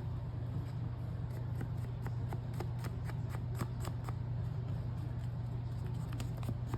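Paper crafting at a desk: small irregular ticks, taps and rubs of paper and tools being handled, over a steady low hum.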